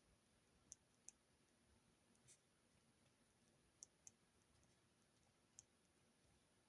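Faint, sharp clicks from desk stationery during hand note-taking: two quick pairs about a third of a second apart and a single click near the end, with a soft scrape in between, over a hushed room.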